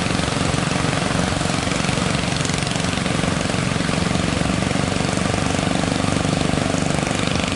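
Fishing boat's engine running steadily, with a constant rushing noise over it.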